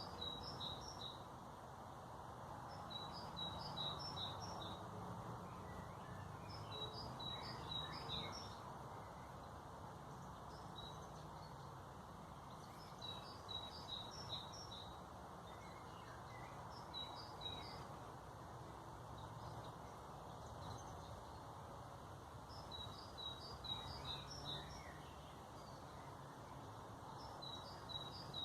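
A songbird singing a short phrase of quick high notes, repeated every three to four seconds, over a steady low background hum.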